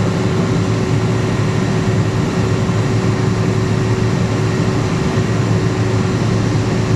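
Cummins diesel generator set running steadily: a constant low engine drone with a steady hum above it.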